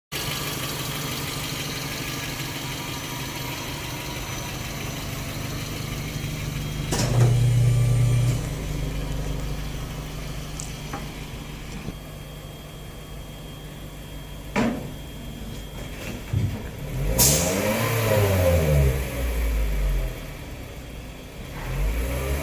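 Exhaust of a 2024 Toyota Town Ace van's 1.5-litre naturally aspirated engine, through a low-volume centre single muffler and stainless downturned tip, idling steadily with a brief louder blip about seven seconds in. The engine is then revved up and down several times in the last few seconds.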